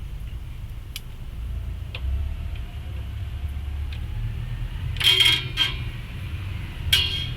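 Metal parts clanking and rattling twice, a short burst about five seconds in and another near the end, over a steady low rumble, as drum brake hardware and tools are handled.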